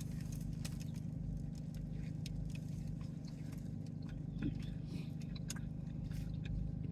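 Faint chewing and small mouth clicks from someone eating a sandwich, over a steady low hum inside a car.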